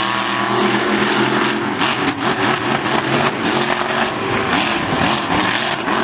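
A large vehicle engine running loud and being revved repeatedly, its pitch rising and falling several times.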